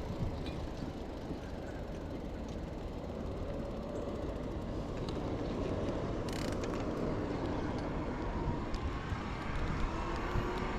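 Wind noise on the microphone and tyre rumble from an e-bike riding along a road. In the second half a passing vehicle's engine and tyres grow louder as it comes up to overtake.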